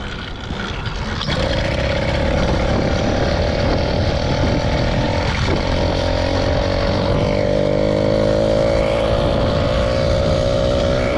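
Small motorbike engine pulling away under throttle about a second in, then holding a steady high drone with a brief dip about halfway, and climbing slowly in pitch near the end. It is on a test ride with a newly changed sprocket, and the bike is slow to build speed.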